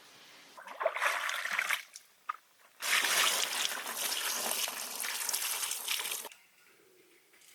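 Liquid being poured, in two pours: a short one of about a second, then a longer one of about three and a half seconds that stops suddenly.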